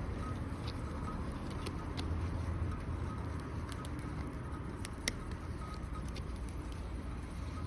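Wood fire crackling in a fire pit, with scattered sharp pops (the loudest about five seconds in) over a steady low rumble.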